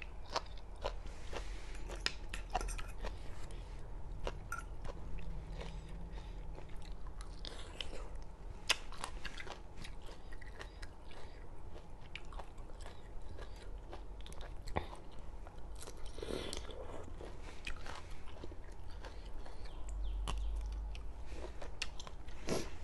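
Close-miked chewing and biting into spicy Thai seafood salad: irregular wet clicks and crunches from the mouth, with a low steady hum under them.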